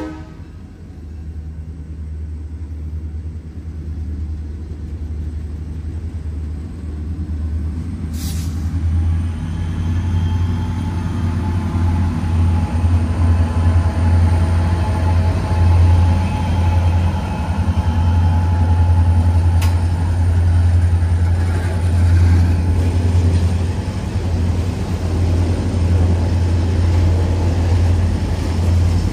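Diesel locomotive and train running past, a heavy low rumble that grows louder over the first ten seconds or so and then stays steady.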